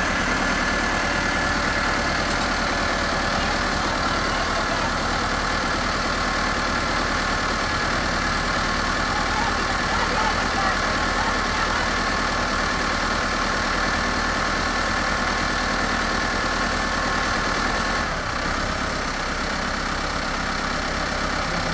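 A steady running engine with a constant hum. About eighteen seconds in, part of the tone drops out and the sound gets slightly quieter.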